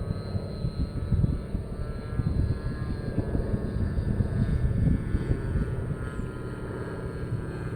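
Radio-controlled model airplane's engine and propeller running in flight, its pitch drifting slightly up and down, with gusts of wind buffeting the microphone.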